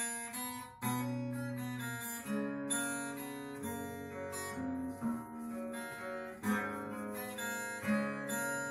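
Acoustic guitar playing chords, starting abruptly, with a new chord struck about every one to one and a half seconds.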